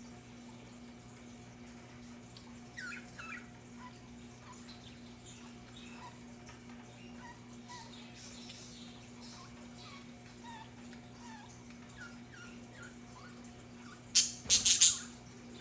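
Budgerigars chattering with small warbling chirps, a louder pair of chirps about three seconds in, and a loud burst of sharp high calls near the end, over a faint steady hum.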